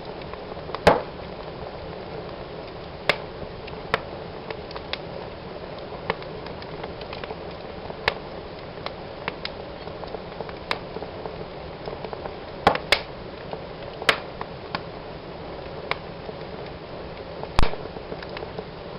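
Wood fire in a fireplace burning with a steady hiss and irregular sharp crackles and pops from the logs, the loudest about a second in, near the middle and near the end.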